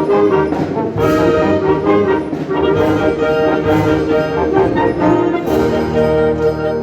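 Wind band playing loudly, with the brass section, including trombones and trumpets, carrying held chords.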